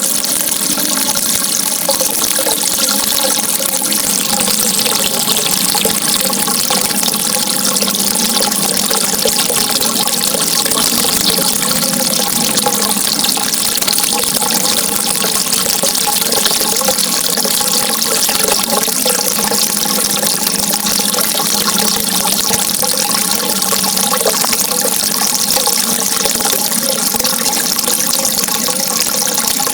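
Water running steadily, an even rushing sound that neither pauses nor changes.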